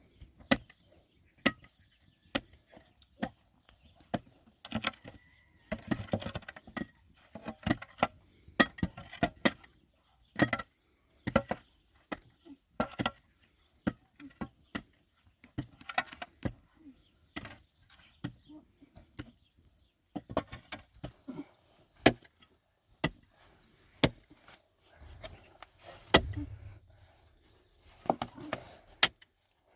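A series of sharp, irregular knocks and clicks, roughly one or two a second, with short bursts of rustling between them.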